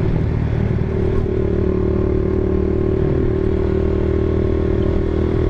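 Honda Sonic 150R's single-cylinder four-stroke engine running at steady revs while riding.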